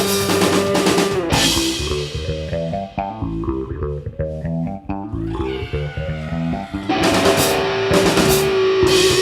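Studio-recorded rock band music with guitar, bass guitar and drums. About a second in the full band drops back to a sparser passage where the bass plays a run of stepping notes, and the full band comes back in near the end.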